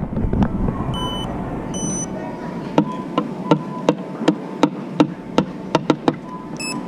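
Self-checkout machine beeping: two short electronic beeps, then another near the end. Between them, a run of about a dozen sharp clicks, roughly three a second, over steady store background noise.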